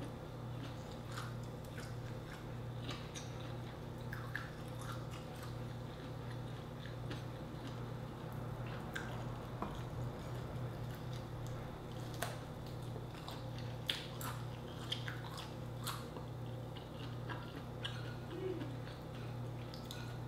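Close-miked chewing and mouth sounds of someone eating grilled shrimp: scattered wet smacks and small clicks all through. A steady low hum runs underneath.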